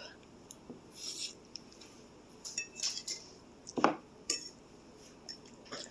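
An eating utensil clinking and scraping against a bowl of noodles in a few scattered, short clinks, the sharpest a little before four seconds in.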